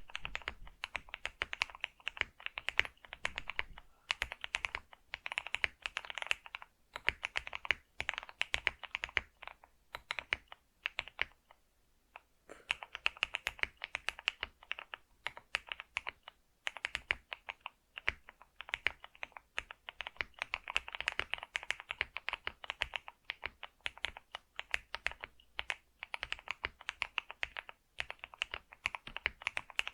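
Computer keyboard being typed on continuously: fast runs of key clicks, broken by short pauses, the longest about eleven seconds in.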